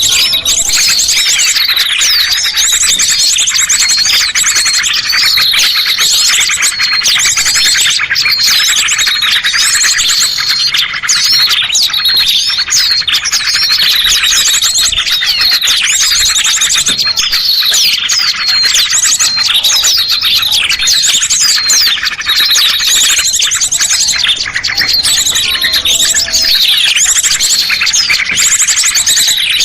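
Many small songbirds chirping and twittering at once in a dense, loud, unbroken chorus of high, quick notes and short rapid trills, the kind of recording played to lure small birds down.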